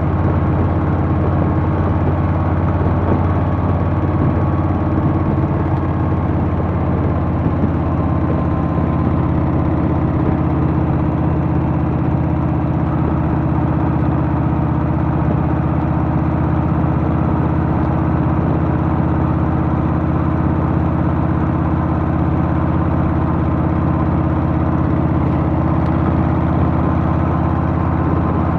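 Harley-Davidson Softail's Milwaukee-Eight V-twin engine running at a steady, even pitch, heard from on the motorcycle.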